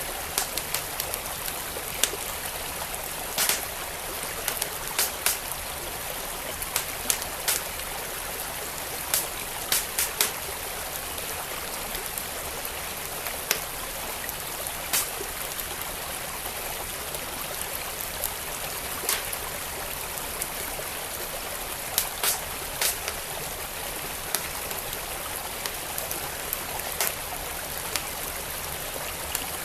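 Wood fire crackling, with irregular sharp pops about every second or two, over the steady rush of a flowing stream.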